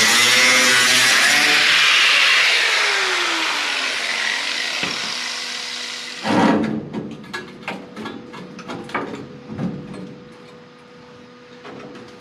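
A cut-off wheel grinding through sheet-metal car body, then released and spinning down with a falling whine. About six seconds in comes a loud knock, then a run of metal clanks and knocks as the parts and tool are handled.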